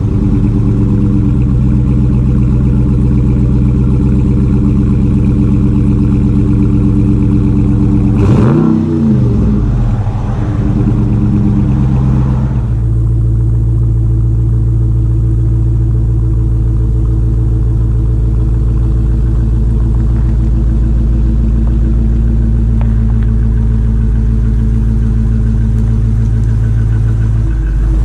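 Dodge Challenger R/T's V8 through a Mopar cat-back exhaust, running steadily under way. About eight seconds in the pitch dips and climbs back as the revs change, and a few seconds later it settles into a steady, deeper drone.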